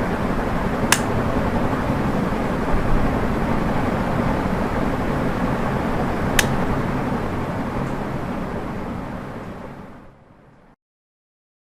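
Ceiling fan running with a steady whir and a low hum, with two sharp clicks, one about a second in and one about six seconds in. The sound fades out and stops near the end.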